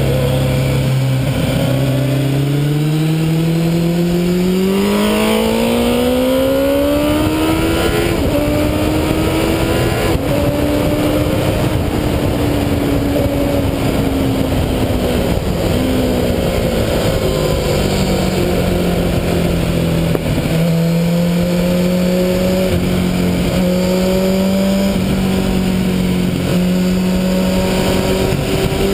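MV Agusta sport motorcycle engine under load at track speed, heard from a camera on its fairing with wind noise throughout. The engine note climbs steadily over the first ten seconds or so, eases down, holds at a steady pitch through the second half and rises again near the end.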